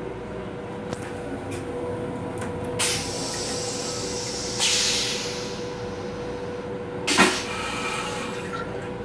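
Inside a Metro-North M7 electric railcar: steady running noise with a constant hum, broken by a few clicks and knocks, a louder clunk about seven seconds in, and a short hiss near the middle.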